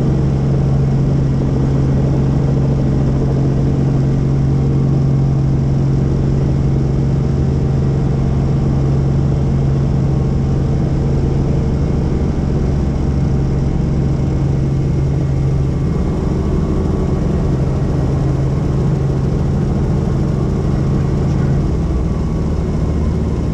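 Helicopter engine and rotors running with a loud, steady drone and a strong low hum; the hum weakens about two-thirds of the way through and drops again near the end.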